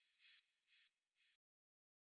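Near silence: the very faint tail of a rhythmic hiss, about two pulses a second, dying away and cutting off to complete silence about two-thirds of the way in.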